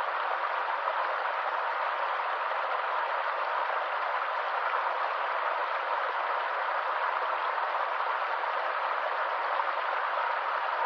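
Small stream or waterfall: water rushing over rocks in a steady, even hiss with no distinct splashes.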